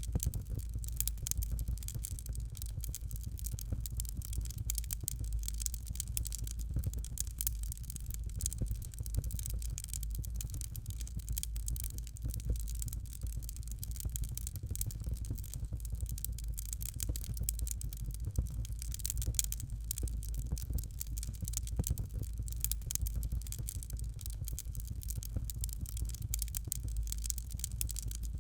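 Fire crackling in a fireplace: dense, irregular small pops and snaps over a steady low rumble.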